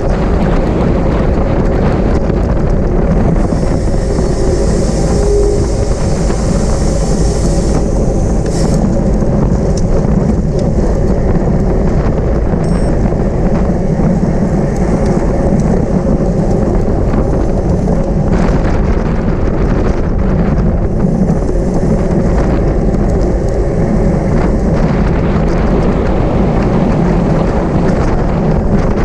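Loud, steady wind rushing over the microphone of a camera riding on a bicycle at race speed.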